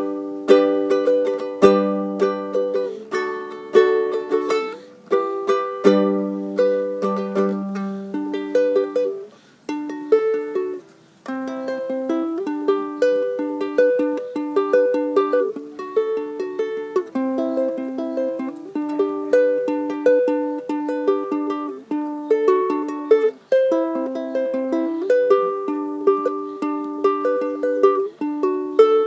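A plucked string instrument played solo, with picked notes and chords ringing and fading, as an instrumental break with no singing. It stops briefly twice about ten seconds in.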